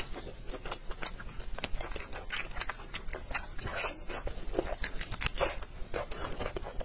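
Close-miked eating sounds: wet chewing and lip smacks, heard as many short, irregular clicks while meat is bitten off a chicken-leg bone.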